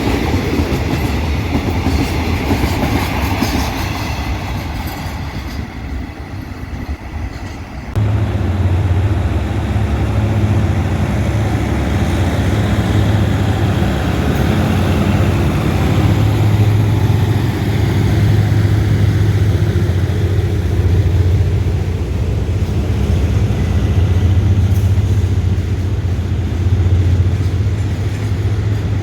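Train wheels clattering past over the rails, easing off. About eight seconds in there is a sudden cut to a diesel locomotive's engine running with a steady low note.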